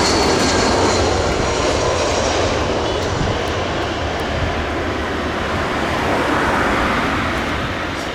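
Airliner's jet engines running loud and steady as the aircraft passes: a dense rushing noise with a faint high whine, easing off slightly near the end.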